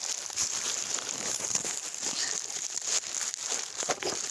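Continuous close rustling and crackling, dense with small clicks.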